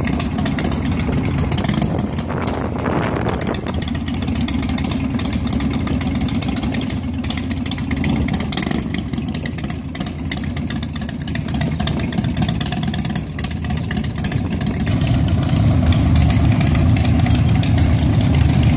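Harley-Davidson V-twin motorcycle engines running, growing louder over the last few seconds.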